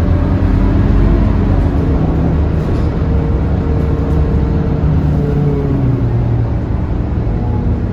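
Scania K230UB single-deck bus's five-cylinder diesel engine running as the bus drives between stops. The engine note rises slowly, then drops about six seconds in.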